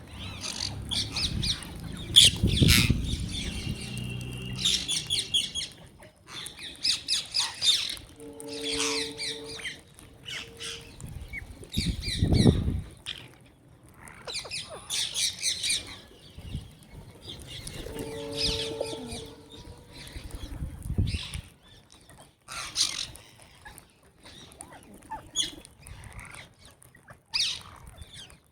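Many small birds chirping and twittering in quick, high calls, with a lower, held call coming in twice and a few brief low rumbles.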